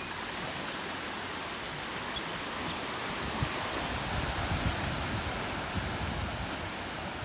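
Ocean surf washing on the shore, a steady rush of noise, with a few low thumps in the middle of it.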